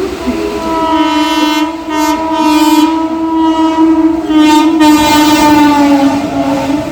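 Indian Railways WAG-9HI electric locomotive's air horn sounding one long continuous blast as the freight train passes. The chord of horn tones dips slightly in pitch in the last couple of seconds.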